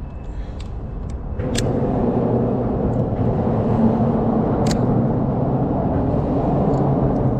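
Steady, loud, low vehicle-like rumble with a hum, growing louder about a second and a half in, with a couple of sharp clicks on top.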